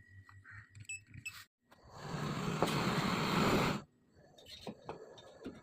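Refrigerant gas hissing loudly from a charging line or valve for about two seconds, then cutting off abruptly. Before it there are a few faint clicks and a short high beep.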